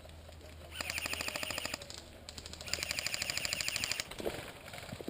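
Airsoft electric gun firing two full-auto bursts of rapid, evenly spaced shots, each about a second long, the second starting about a second after the first ends.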